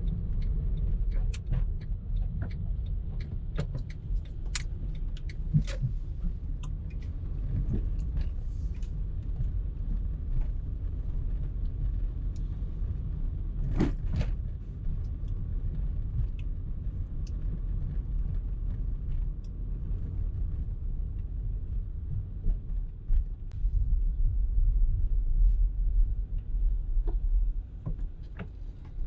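Car driving in traffic: a steady low rumble of road and engine noise, with scattered small clicks and rattles and one louder knock about halfway. The rumble swells for a few seconds near the end.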